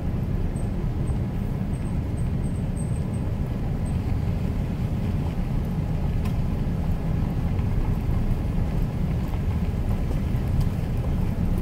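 A truck's engine and tyres rumbling steadily while driving, heard from inside the cab.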